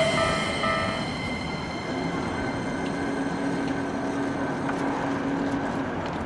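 Keikyu 1000 series stainless electric train running past and into the station. Its motor whine and running noise fade over the first second or so, leaving a steadier, quieter rumble.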